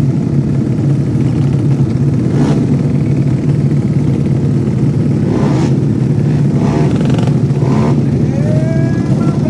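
Motocross motorcycle engines running in a loud, steady drone, with a few short surges.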